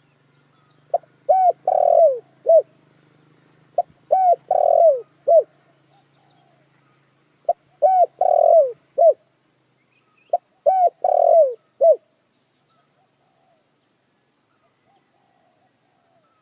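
Spotted dove cooing: four phrases about three seconds apart, each a few short coos around one longer note that falls in pitch at its end. The calls stop about twelve seconds in.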